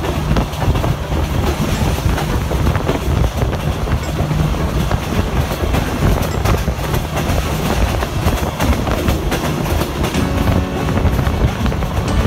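SE7 passenger train running along the track, heard from an open window of one of its carriages: the rumble and rushing of the moving train with the wheels' clickety-clack over the rail joints.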